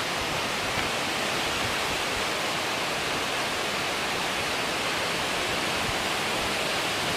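Strong wind rushing steadily during a wind storm, an even roar with no gusts or breaks.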